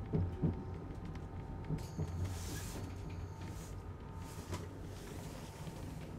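Driver's cab of an ICE high-speed train rolling slowly through a station throat: a low steady rumble with a few sharp knocks, and a brief hiss with a faint high whistle about two seconds in.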